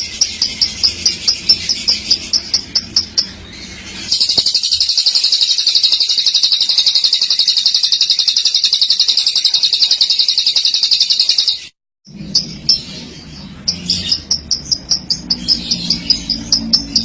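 Female lovebird's long 'ngekek' chatter: rapid high chirps at about five a second, then an unbroken high trill lasting about eight seconds. The trill cuts off abruptly, and after a brief silence the quick chirping resumes.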